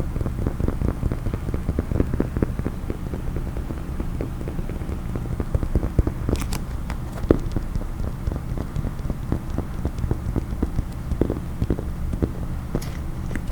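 Rapid, continuous tapping with fingers on a case, with a few sharper clicks about six and seven seconds in and again near the end.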